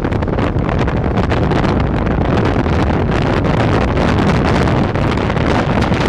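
Wind buffeting the microphone of a camera held out of a moving passenger train's window, over the train's steady running noise.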